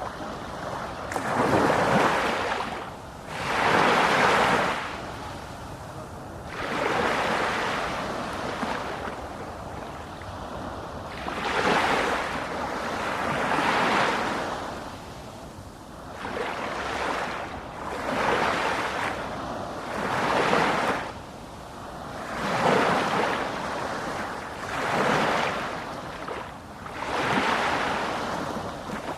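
Sea waves breaking and washing in, a rush of surf that swells and fades about every two seconds.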